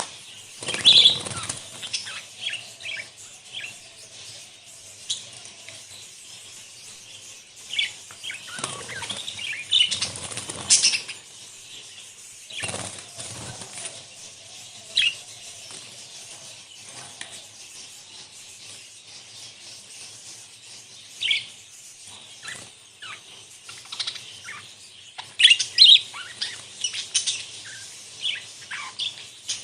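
A flock of budgerigars chirping and chattering in short high calls, with several bursts of wing flapping. The chirping is busiest at the start and again near the end, with a quieter stretch between.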